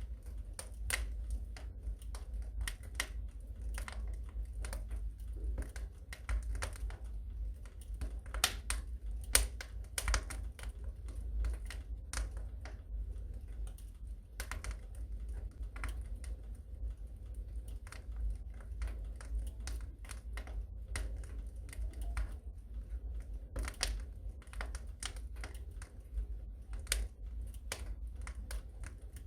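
Wood fire crackling in a fireplace: irregular sharp snaps and pops, some louder than others, over a low steady rumble.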